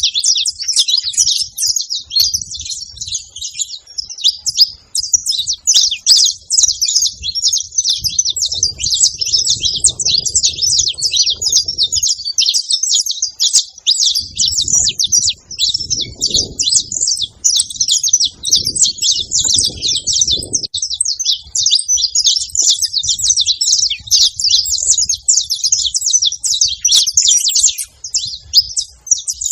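Saffron finches chirping continuously in a dense stream of rapid, high-pitched notes.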